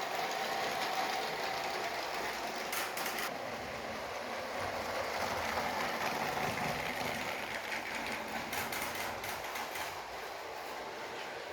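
Motorized Lego train running on plastic track: a small electric motor whining steadily over the dense rattle and clicking of its wheels and gears.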